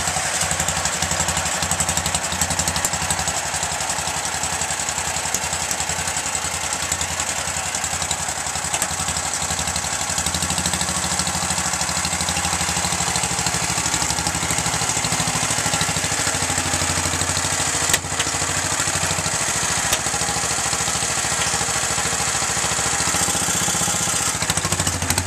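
1979 Dynamark 11/36 garden tractor's 11-horsepower Briggs & Stratton single-cylinder engine running just after a cold start, a little uneven at first, then settling into a steadier idle. A single brief click about eighteen seconds in.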